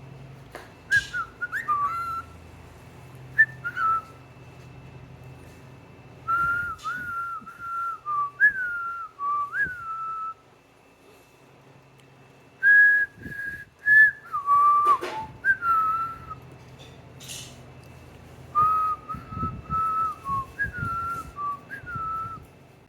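Young cockatiel whistling a tune in short repeated phrases of clear held and sliding notes, with pauses between them. There are a few light clicks.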